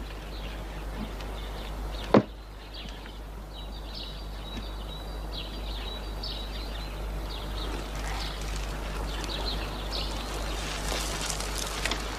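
Small birds chirping now and then over a steady low hum, the chirps growing busier in the second half. A single sharp click about two seconds in.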